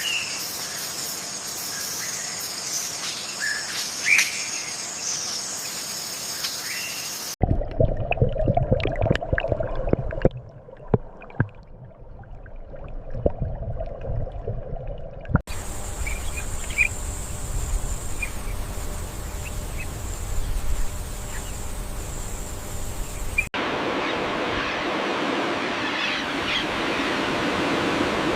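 Outdoor nature ambience that changes abruptly at each cut. First come birds chirping over a steady high buzz, then a stretch of low rumble with sharp clicks and knocks. The buzz returns with a few chirps, and near the end comes a steady rushing hiss.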